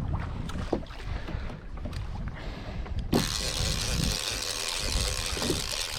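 Kayak being paddled: paddle strokes and knocks in the water about once a second over low water noise. A steady hiss comes in suddenly about halfway through.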